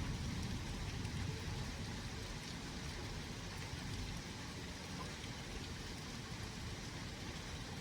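Steady rain falling in a thunderstorm, with a constant low rumble underneath.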